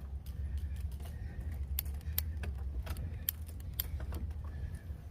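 Wind rumbling on a GoPro microphone during a bicycle ride, with scattered sharp clicks and rattles throughout.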